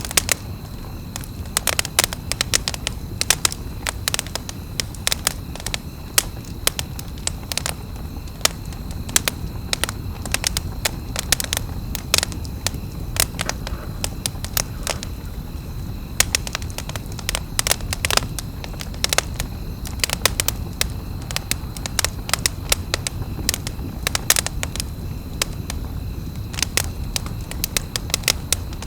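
Wood campfire crackling, with frequent sharp, irregular pops and cracks over a steady low rush of the fire.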